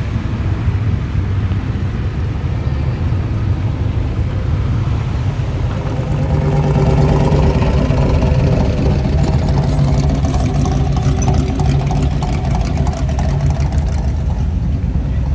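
A car engine running at low speed, growing louder about six seconds in and then holding steady.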